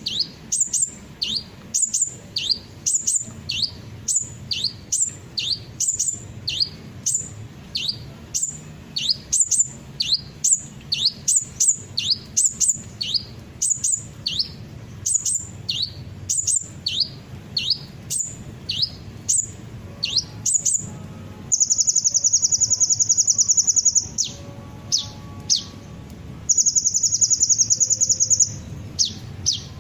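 Sunbird song: sharp, high chirps sweeping downward in pitch, repeated about twice a second, then rapid high trills of a couple of seconds each, with a few single chirps between them.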